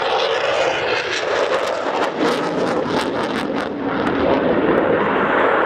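Eurofighter Typhoon's twin EJ200 jet engines at full power in a high-speed flyover: a loud, steady rush of jet noise with sharp crackling through the middle.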